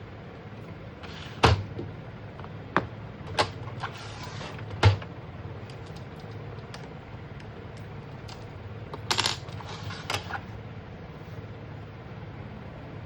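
Scattered sharp clicks and knocks, a few in the first five seconds and a short cluster about nine seconds in, over a steady low hum: parts of an Epson ink-tank printer being handled while it is taken apart for repair.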